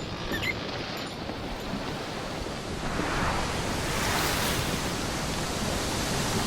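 A steady rushing noise with no pitch or rhythm, swelling and growing brighter about three seconds in.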